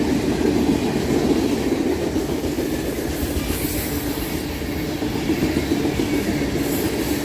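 Freight train cars rolling past close by, with a steady rumble of steel wheels on the rails and a clickety-clack from the rail joints.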